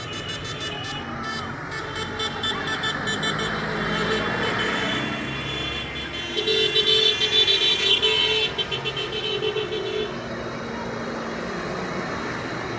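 Parade tractors passing, engines running, with a horn sounding for about three and a half seconds midway, pulsing as it goes.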